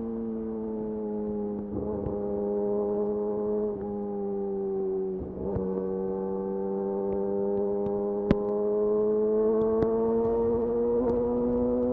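Yamaha YZF-R6 inline-four engine running through a de-catted Akrapovic slip-on exhaust at steady mid-range revs while riding. It dips slightly in pitch a few times, then climbs slowly in the second half, with a sharp click about eight seconds in.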